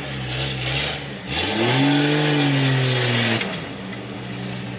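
A Jeep Wrangler 4x4's engine revving under load as it climbs out of a muddy rut. It gives a couple of short blips, then rises just over a second in and holds a high rev for about two seconds before dropping back to a low, steady run.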